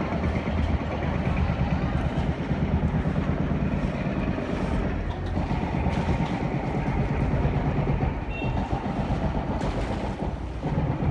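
Busy street noise: a steady low rumble under a dense mix of indistinct sounds, the rumble easing after about five seconds.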